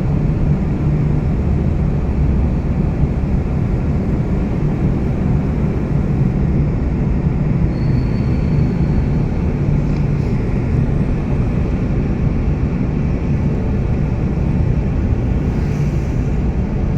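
Steady low rumble of a vehicle travelling at speed: road and engine noise without a break.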